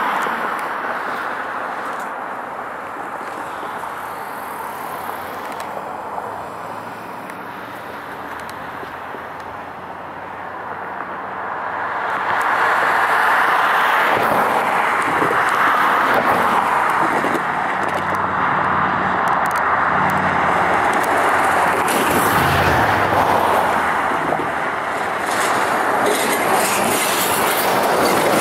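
Approaching Union Pacific diesel freight train heard at a distance, mixed with road traffic: a steady rushing noise that swells about twelve seconds in and stays loud.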